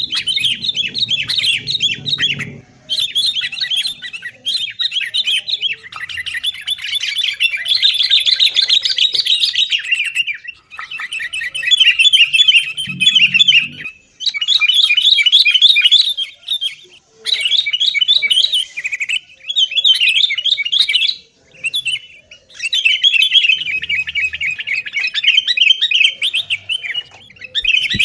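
Sooty-headed bulbuls (kutilang) calling noisily, in rapid chattering bursts of one to four seconds separated by short pauses: agitated, fight-like calling.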